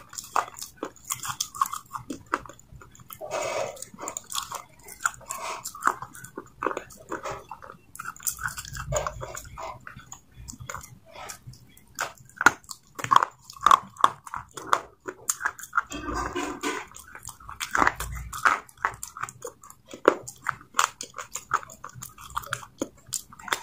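Close-up chewing of a wet grey paste eaten from the fingers: a quick, irregular run of crunchy clicks and wet mouth smacks, with a few fuller bites.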